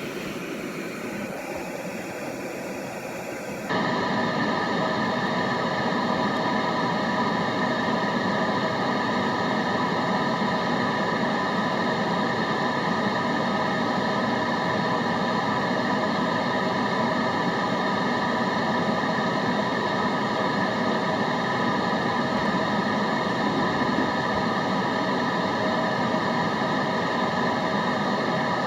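Steady white-noise background with several even humming tones in it. About four seconds in it switches abruptly to a louder, duller blend, which then holds steady.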